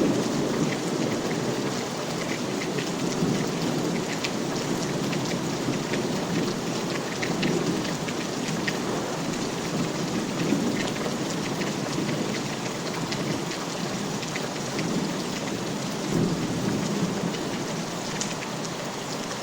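Steady rain falling, with scattered sharp drop ticks over a low, rolling rumble that swells gently now and then.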